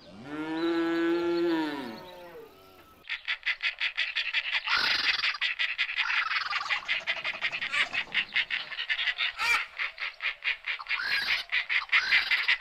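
A cow moos once, a call that rises and then falls in pitch. From about three seconds in comes a fast, continuous run of pulsed animal calls, many a second.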